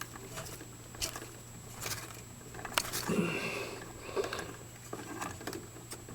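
Light clicks and rustling of electrical wires being handled while plastic wire nuts are twisted onto spliced leads, over a steady low hum.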